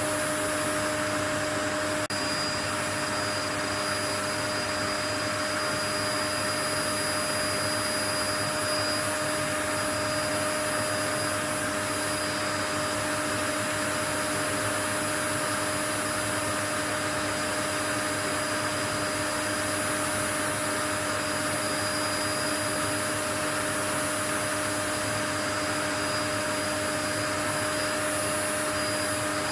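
Steady white noise: an even rushing hiss with a few constant hums running through it, unchanging throughout, like a motor-driven appliance such as a vacuum cleaner running.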